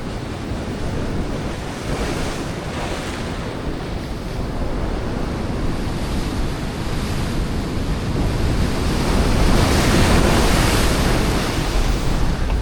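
Ocean swell breaking and washing over a rock ledge, a steady rushing surge that builds to a louder wave about three-quarters of the way through, with wind buffeting the microphone.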